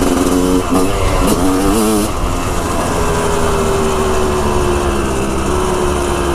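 Dirt bike engine under way: revving up and down with the throttle for the first two seconds, then held at a steady pitch that sags slowly as the bike runs on.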